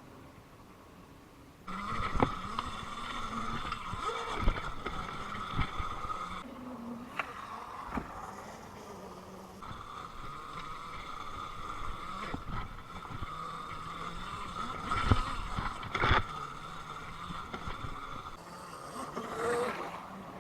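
Happy Run F18 electric dirt bike's motor whining at a steady high pitch under throttle. It cuts out twice as the throttle is let off, and the bike makes several sharp knocks and thuds as it goes over the track.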